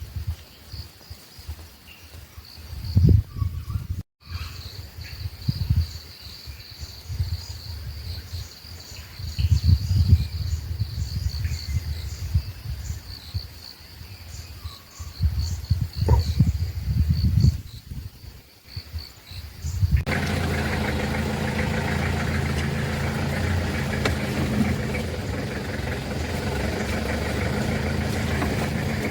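Insects chirring steadily at a high pitch over irregular low rumbles. About two-thirds of the way through it cuts to a vehicle engine running steadily.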